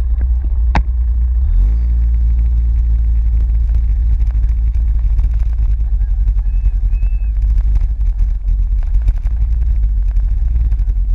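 Steady low rumble, typical of wind buffeting the microphone, with a vehicle engine note that drops in pitch about one and a half seconds in and then holds steady. A sharp click sounds near the start.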